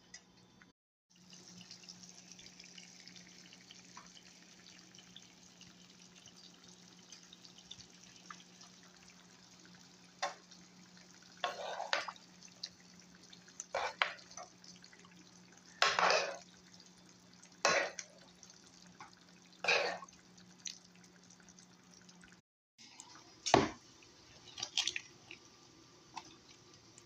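Short splashes of water in a kitchen, one roughly every two seconds from about ten seconds in, over a steady low hum.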